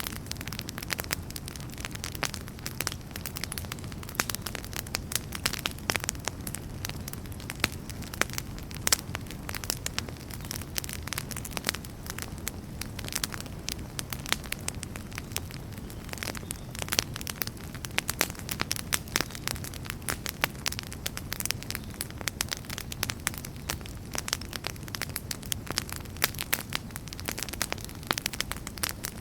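Wood campfire burning: dense, irregular crackles and pops over a steady low rumble of the flames.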